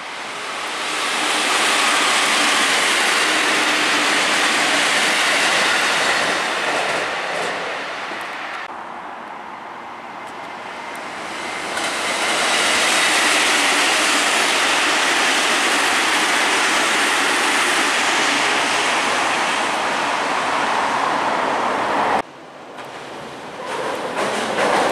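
JR Central 313 series electric trains passing on the Tokaido Main Line: a steady rush of wheels on rail swells up, dies back about nine seconds in, then swells again and holds. Near the end it cuts off abruptly and another train's noise builds.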